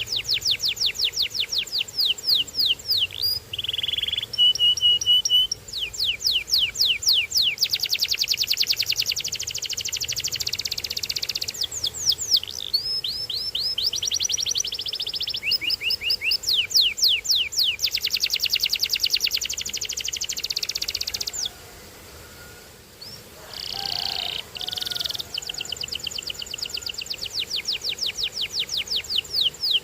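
Domestic canary singing: long rapid trills of quickly repeated high notes, broken by a pause of about two seconds past the middle before the song resumes.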